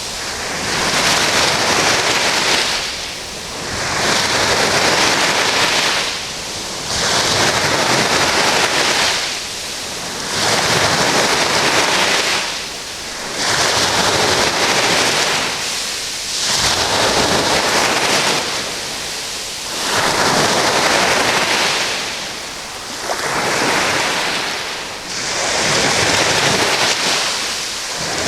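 Sea waves washing in, one surge of surf about every three seconds, each rising and falling away in turn.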